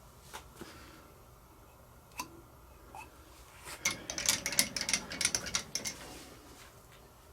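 Metal parts and tools being handled in a machine shop: a few single sharp metallic clicks, then about four seconds in a quick run of clicking and rattling that lasts about two seconds.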